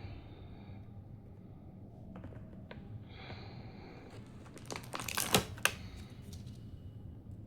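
Plastic toy packaging being handled and opened: soft rustling and a few scattered clicks, then a quick run of sharp plastic clicks about five seconds in.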